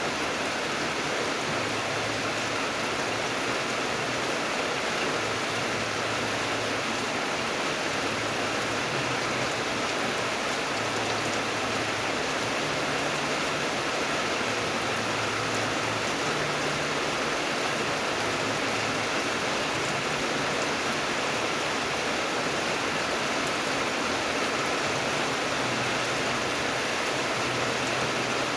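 Steady rain falling, a constant even hiss of many drops with no distinct splashes or pauses.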